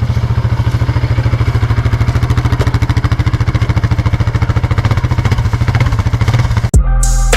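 Quad (ATV) engine running at a steady, even pace as the quad is ridden. Near the end it cuts off abruptly and music with a drum beat starts.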